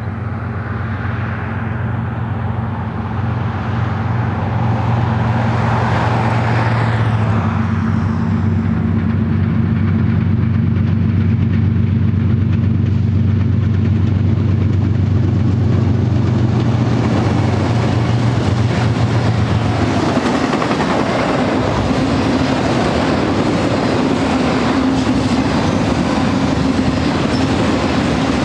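GE ES44DC diesel-electric locomotives, with 12-cylinder GEVO engines, pass with a steady low engine drone that grows louder over the first few seconds. About twenty seconds in, the engine sound gives way to the rolling noise and clatter of auto-rack freight cars going by on the rails.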